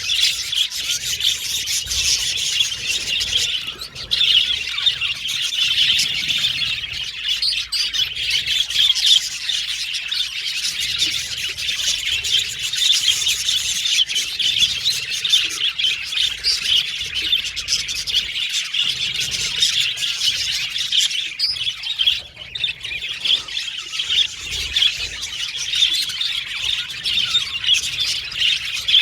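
A flock of budgerigars chattering continuously: a dense, steady mix of rapid warbling chirps and occasional harsher squawks.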